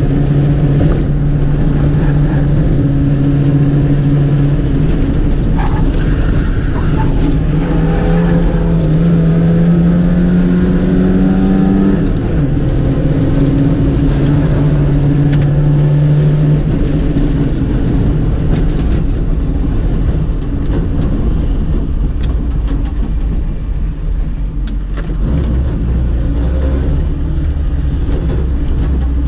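Lada race car's engine heard from inside the cabin, pulling hard with the revs climbing, a sharp drop in revs about twelve seconds in, then easing off to a lower, quieter running as the car slows near the end.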